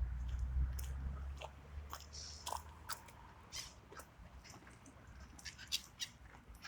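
Ducks feeding on the water: scattered short clicks and snaps of their bills dabbling and picking at food. A low rumble covers the first second or so.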